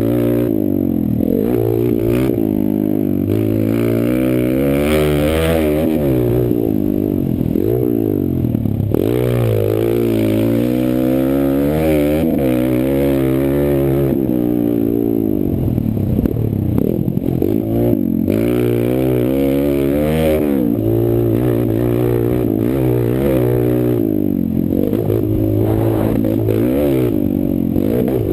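Kawasaki KLX140 pit bike's single-cylinder four-stroke engine ridden at race pace, its pitch climbing and dropping again and again every second or two as the throttle is opened and shut and it shifts gears.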